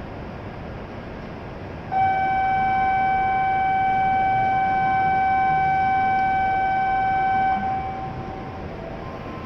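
A steady buzzer-like warning tone, one unchanging pitch sounded for about five and a half seconds and then cut off, as the shinkansen's doors and platform gates close for departure.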